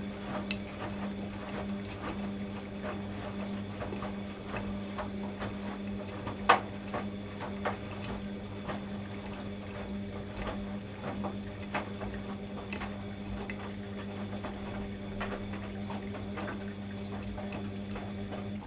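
ATLANT washing machine working with water: a steady low hum over splashing and trickling water, with irregular small clicks and one sharper click about six and a half seconds in.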